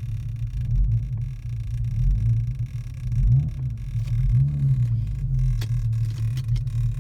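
Infiniti G37's V6 engine running roughly at idle, a low rumble that swells and sags unevenly. The car has a check-engine fault with loss of power, which the owner thinks might be the mass airflow sensor.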